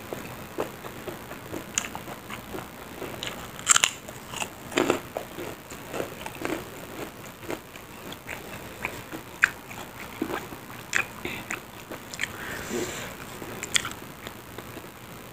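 Mouth chewing and crunching crispy kerupuk crackers: irregular crisp crunches with wet chewing in between, a few crunches standing out louder.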